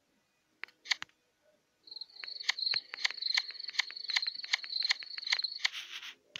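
High-pitched insect-like chirping: a steady shrill trill with sharp clicks about three times a second, starting about two seconds in after two faint clicks and ending in a brief hiss near the end.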